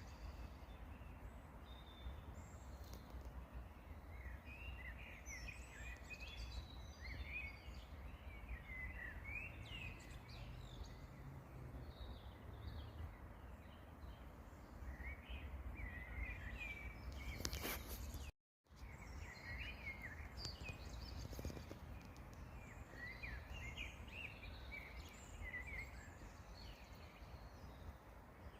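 Songbirds chirping and singing on and off in short phrases over a steady low rumble, with a brief dropout to silence about eighteen seconds in.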